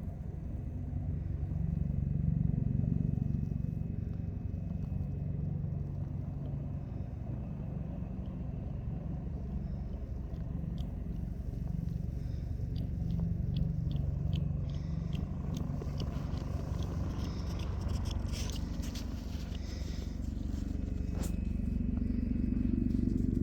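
A motor engine running steadily with a low hum. In the second half there is a run of light clicks and scrapes.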